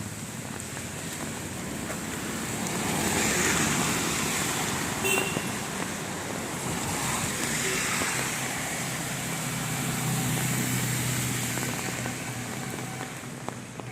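Road traffic on a rain-wet street: vehicles pass one after another, each swelling and fading over a steady wash of noise, with a brief sharp click about five seconds in.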